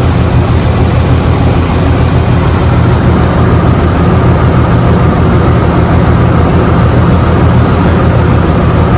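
Jeep Liberty V6 engine idling steadily while it misfires on cylinder 2, which the mechanic traces to that cylinder's ignition coil not firing a spark.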